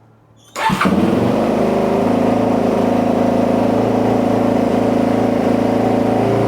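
Suzuki DR-Z's single-cylinder four-stroke engine starting about half a second in and running at a steady, fast idle. The idle is still too high after the carburettor idle-screw adjustment.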